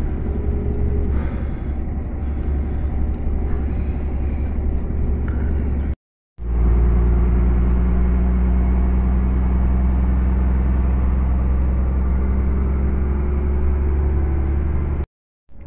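Long-haul truck's diesel engine running steadily with a low drone. It cuts out twice, briefly: about six seconds in and again near the end. After the first break it is louder.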